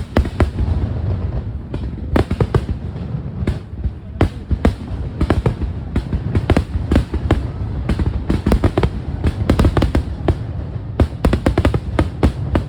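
Aerial fireworks display going off: a dense run of sharp bangs and crackles over a deep rumbling boom, with bursts following each other many times a second and no break.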